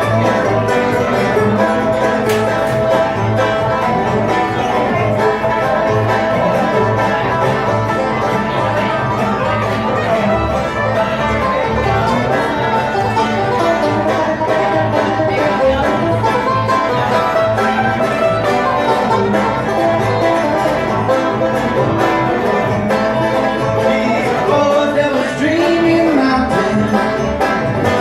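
Live bluegrass string band playing an instrumental break between sung verses of a song.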